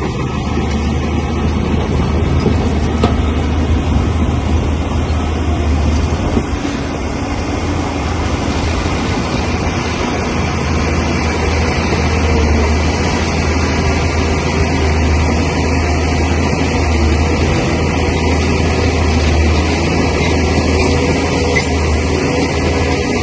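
Bulldozer's heavy diesel engine running steadily with a deep drone.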